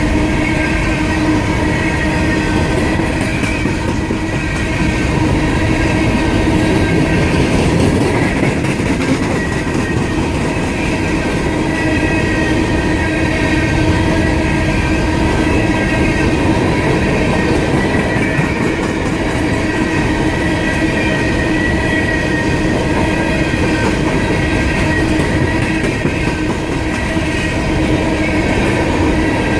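A long string of empty coal hopper cars rolling past steadily, with a continuous steady squeal from the wheels on the rails.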